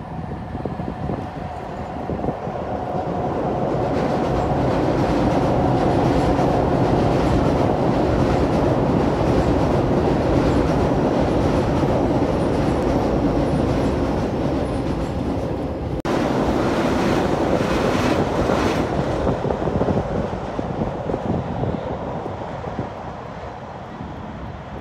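Keio Line electric commuter train crossing a river railway bridge overhead: a dense rumble of wheels on rails with clickety-clack over the rail joints. It swells over the first few seconds, breaks off suddenly about two-thirds through, and fades away near the end.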